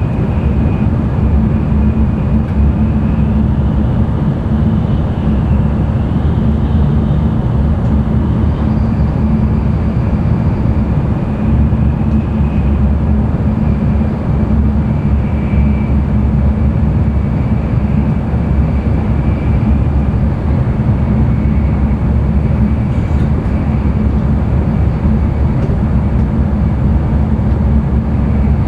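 Cabin running noise of an N700-series Shinkansen at speed: a loud, steady low rumble with a faint high whine above it.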